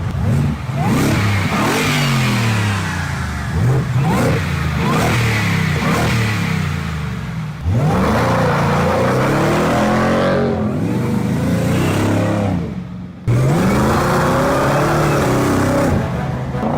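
Pickup truck engine with an aftermarket exhaust and cold air intake, revving hard under acceleration, its pitch climbing and dropping again and again. The sound dips briefly about thirteen seconds in, then comes straight back loud.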